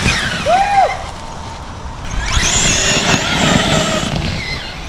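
Traxxas X-Maxx RC monster truck's electric motor whining through a short rev that rises and falls about half a second in. From about two seconds in it runs again, with high whine and drivetrain noise for around two seconds.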